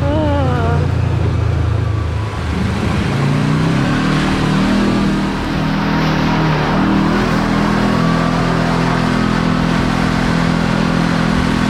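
Kawasaki KRX4 1000 side-by-side's parallel-twin engine running under way. It drops off briefly about two seconds in, then picks up and pulls steadily, over a steady hiss.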